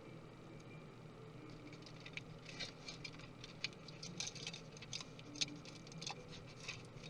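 Light, rapid clicking and tapping of small tools and parts during a MacBook Pro teardown. The ticks start about a second and a half in and come thickest in the middle, with one sharper click past the middle.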